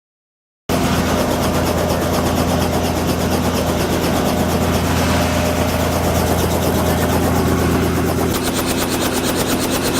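Helicopter running: a loud, steady drone of engine and rotor with a fast, even pulsing, cutting in abruptly under a second in.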